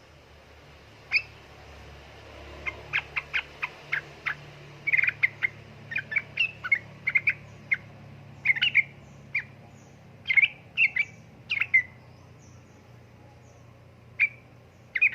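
Yellow-vented bulbul (trucukan) calling: a long series of short, sharp chirps, coming in quick runs from about three seconds in, then a pause and a few more chirps near the end.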